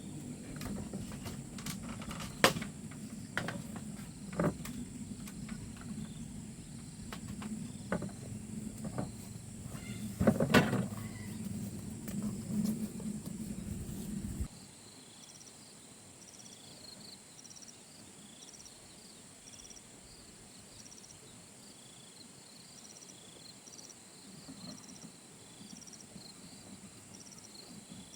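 Insects trilling steadily, with short chirps repeating through the second half. In the first half a low rumble with scattered sharp knocks and cracks runs underneath, then cuts off suddenly about halfway.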